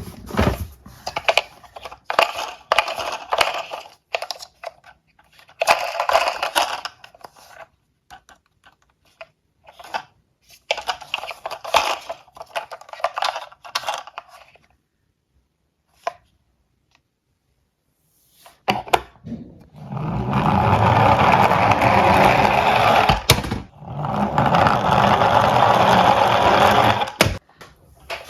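Small diecast toy cars clattering and clicking against each other and a hard surface, then a long steady rolling rumble from about twenty seconds in, broken once, as they run down a slope.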